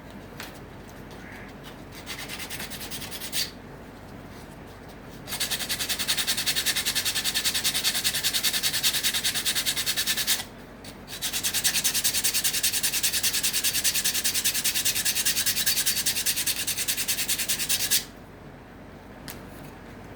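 Rapid, even, scratchy rubbing strokes on a small acacia-wood comb: a short light run, then two long runs with a brief pause between them about halfway through.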